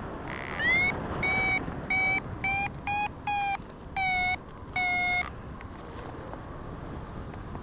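Paragliding variometer beeping: about eight short beeps over some four and a half seconds, their pitch rising a little and then falling back, the sign of lift that strengthens and then eases. Wind noise on the microphone runs underneath.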